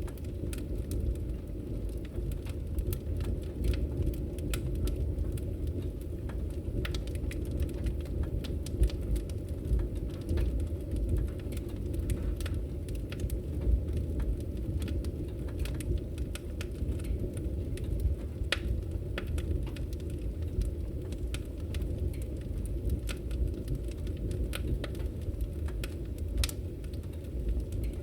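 Wood fire burning in a fireplace: a steady low rumble of flames with frequent sharp crackles and pops of burning logs.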